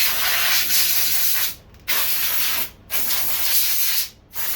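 Pressurised spray hissing in on-off bursts: one running into the start, then three more, each about a second long with short sharp breaks between them.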